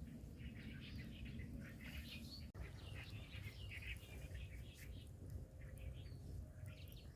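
Small birds chirping repeatedly in short, scattered calls over a steady low rumble of outdoor background noise.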